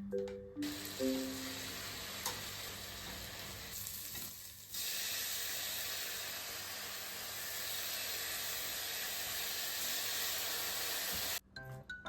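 Food sizzling as it fries in a pan: a steady sizzle that drops away briefly about four seconds in, returns louder, and cuts off suddenly near the end.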